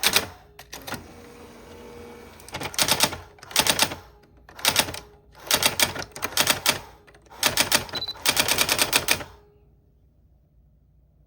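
Old typewriter being typed on: quick runs of keystrokes in several bursts with short pauses between, stopping about nine seconds in.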